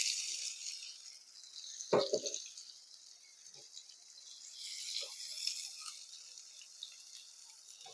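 Pieces of lion's mane mushroom sizzling as they go into hot frying oil, the hiss loudest at first, dying down after a second and swelling again about five seconds in. A single knock about two seconds in.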